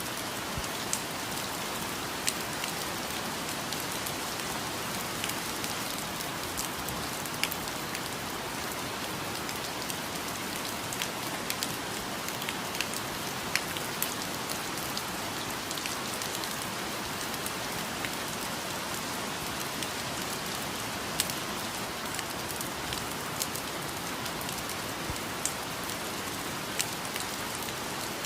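Steady rainfall in a rainforest, an even hiss with many individual drops striking close by.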